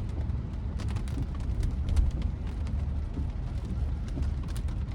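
Inside a Tesla Model Y's cabin on the move in pouring rain: a steady low rumble of tyres on the wet road, with many small clicks of raindrops striking the roof and glass.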